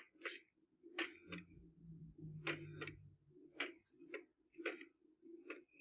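Printer running, faint: a run of sharp mechanical clicks and ticks, about two a second. A low motor hum joins for a couple of seconds in the middle.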